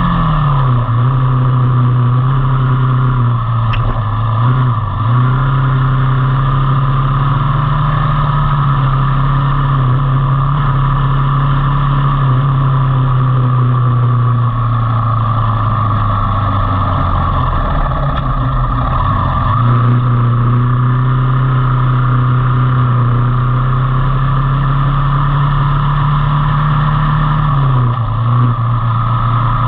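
Motorcycle engine running at a steady cruising pitch, with road and wind noise. The engine note drops briefly and picks back up about 5 s in, around 18 to 19 s, and near the end, as the throttle is eased and reopened.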